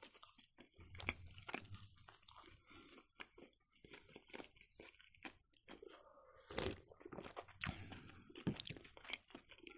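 Close-miked chewing of a piece of Ossetian pie: soft, irregular mouth clicks and small crunches, with a few louder smacks in the second half.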